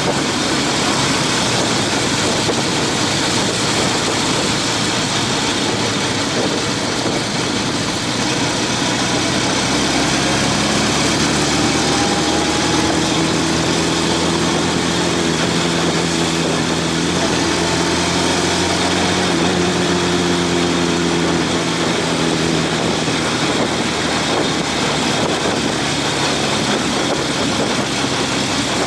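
Motorcycle being ridden: the Honda CB750's inline-four engine running under a steady rush of wind noise on the microphone, its engine note rising and falling in the middle.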